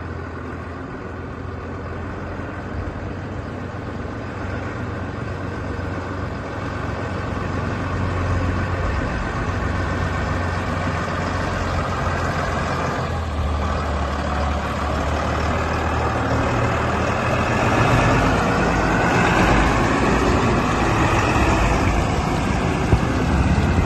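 Volvo tractor engine running steadily, growing gradually louder, with a whine that rises in pitch in the second half.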